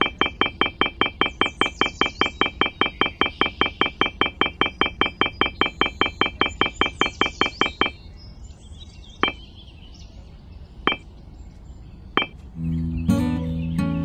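Miniature clay bricks clinking as they are set down one after another, in a fast even run of about five ringing clinks a second that stops about eight seconds in. Three single clinks follow, and acoustic guitar music starts near the end.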